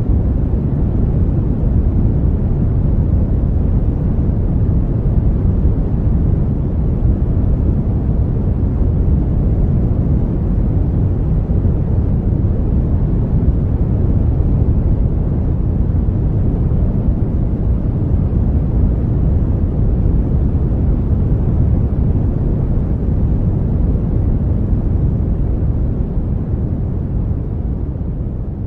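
Brown noise: a steady, deep rushing hiss with most of its weight in the low end. It begins to fade out gradually near the end.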